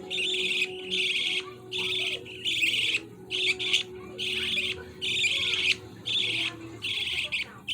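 Baby budgie giving a steady series of short, raspy calls, one roughly every two-thirds of a second.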